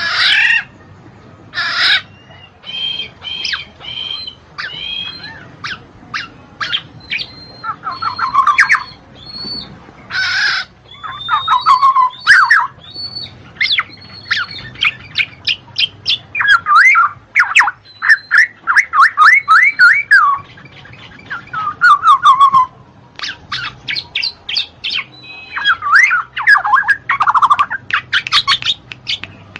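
Black-naped oriole (kepodang) calling in a varied string of bursts: harsh squawks, short whistled notes, and fast runs of down-slurred notes, with brief pauses between phrases.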